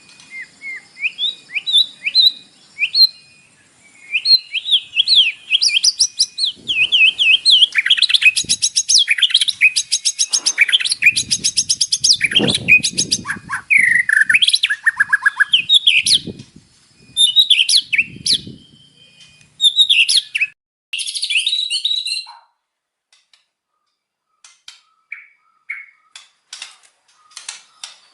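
White-rumped shama (murai batu) singing a fast, varied song of whistled phrases, trills and rapid repeated chirps. The song breaks off about 22 seconds in, and only a few short, fainter notes follow near the end.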